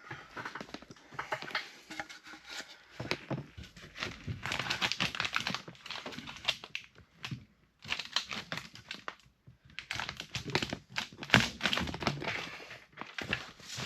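Irregular rustling, scraping and light knocks from handling lumber and tools while framing, with a couple of brief pauses and a sharper knock about eleven seconds in.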